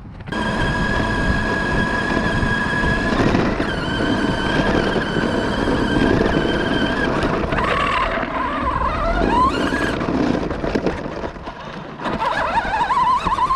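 Remote-controlled monster truck's electric motor and drivetrain whining at a steady high pitch, over rough rolling noise. The whine wavers and rises in pitch as the truck changes speed in the second half.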